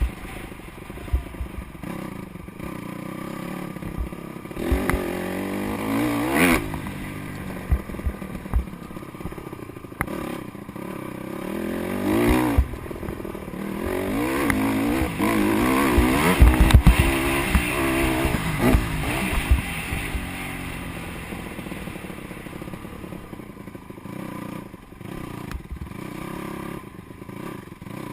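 Motocross bike, a Honda CRF 150R four-stroke single, revving repeatedly as the rider works the throttle and shifts; the engine pitch climbs again and again and is loudest in the middle, with low thumps in among it.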